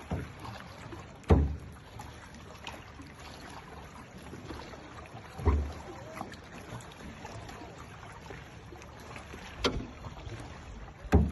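Kayak out on the water: a steady wash of water noise with four sharp, low knocks, about a second in, midway, and two near the end. The knocks are likely paddle strokes or the paddle striking the hull.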